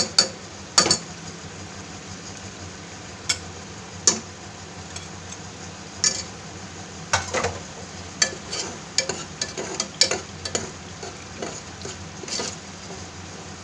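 Tomato-onion masala frying in an aluminium pressure cooker, a steady sizzle, with a steel ladle clinking and scraping against the pot in frequent sharp, irregular clicks as dry spice powders are tipped in and stirred.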